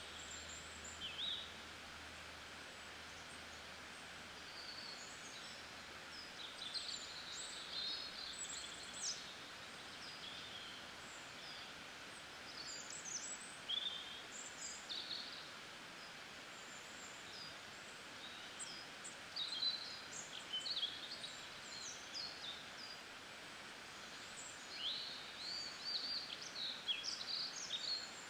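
Several small birds chirping and twittering on and off in short spells over a steady faint hiss.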